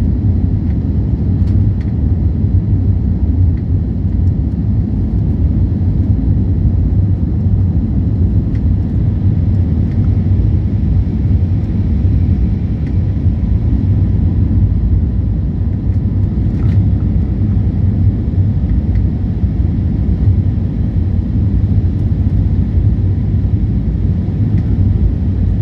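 Airliner's jet engines and airflow making a steady low rumble that does not rise or fall, with a few faint clicks.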